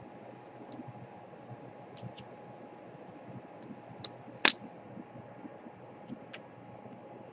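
Scattered light clicks and taps of small hand tools and parts being handled on a workbench, with one much sharper click about four and a half seconds in, over a faint steady hum.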